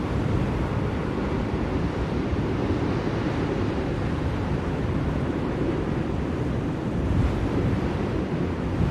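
Steady blizzard wind: a low, even rushing noise that swells slightly about seven seconds in.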